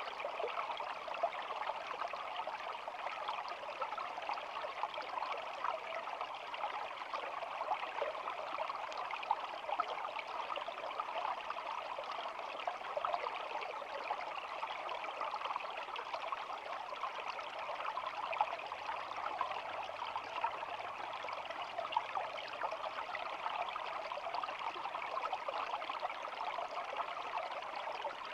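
Small stream babbling and trickling, a steady rush of flowing water flecked with many tiny splashes.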